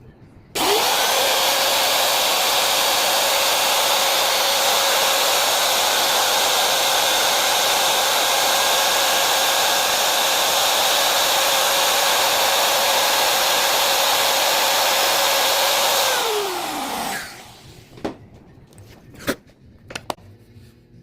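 Electric wood router switched on about half a second in, running at steady speed with a constant whine, then switched off about sixteen seconds in and winding down with falling pitch. A few light clicks follow near the end.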